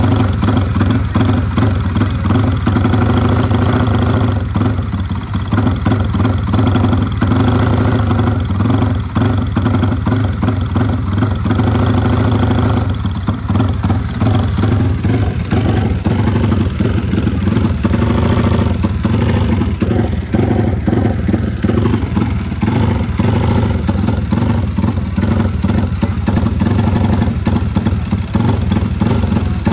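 Yamaha Vixion drag-race motorcycle's single-cylinder four-stroke engine running loudly on its first start after a build, its engine speed shifting a little now and then.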